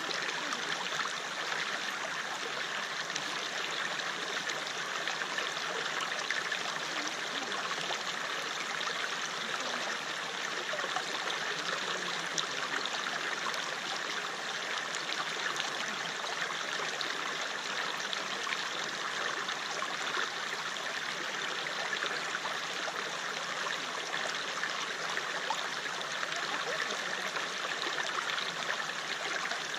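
River water flowing steadily over stones, an even rushing with fine splashing and trickling detail.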